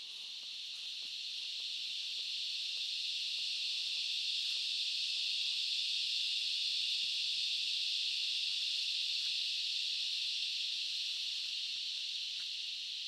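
Rainforest cicadas chorusing: a steady, high-pitched shrill drone that swells gradually to a peak about halfway through and eases off slightly near the end.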